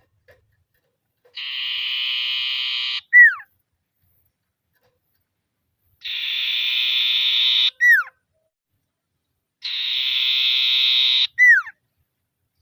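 Common iora (sirtu/cipoh) calling three times: each call is a dry, buzzing rattle of about a second and a half, followed straight away by a loud, sharp down-slurred whistle. This rattling 'ngetir' call is the one used to lure other ioras into calling.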